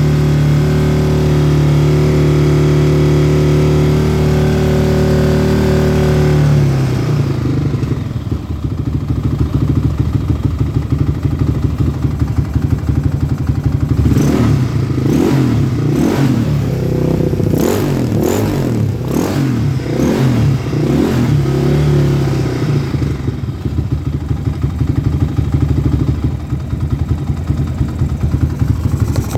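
Yamaha Raptor 660's single-cylinder four-stroke engine through a White Brothers aftermarket exhaust, run after standing a long time. It holds a steady raised speed for about six seconds, drops to a lumpy pulsing idle, is blipped repeatedly for about eight seconds in the middle, then settles back to idle.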